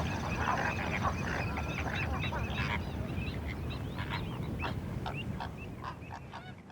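A flock of waterbirds calling, many short overlapping calls over a steady low background noise, fading out near the end.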